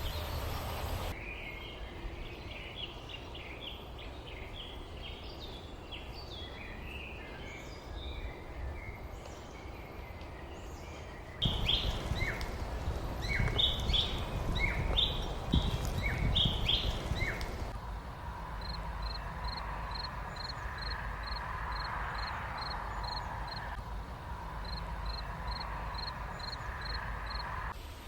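Small birds chirping and twittering in several short outdoor recordings joined by abrupt cuts. In the middle stretch the chirps are louder over a low rumble. In the last stretch one bird repeats a short high note about twice a second over a steady hum.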